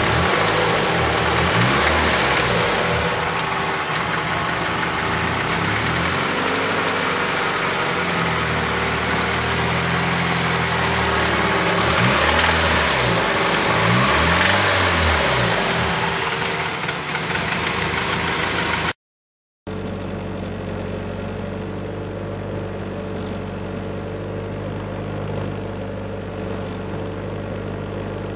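1993 Honda Civic four-cylinder engine running with a knocking noise, revved up and back down several times in the first part. After a brief cut in the sound it idles steadily.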